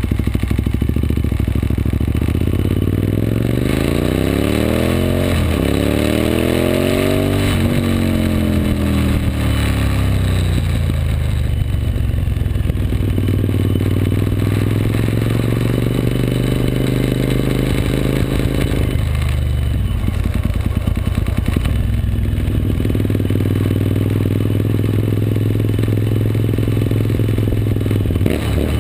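2003 Suzuki SV1000S's 90-degree V-twin engine riding along. It revs up with a gear change about five seconds in, then slows from about eight seconds in, then runs at a steady cruise with a brief dip in revs around twenty seconds in.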